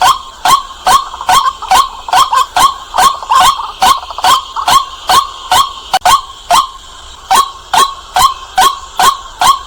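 White-breasted waterhen calling loudly over and over, short sharp 'kwak' notes at a bit over two a second, as used in a recorded lure call.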